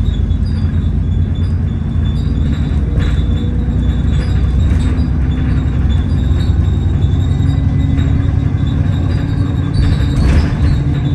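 Interior of an Alexander Dennis Enviro400 double-decker bus under way: a steady low engine and drivetrain drone with light rattles, and a whining tone that climbs slowly in pitch through the second half as the bus picks up speed.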